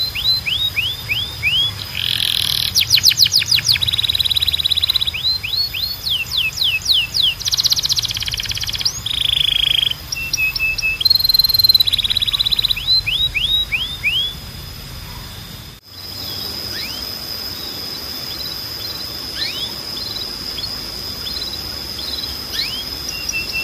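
Domestic canary singing: fast rolling trills and runs of short falling whistled notes. About 16 s in the song cuts off abruptly, then carries on softer over a steady high tone.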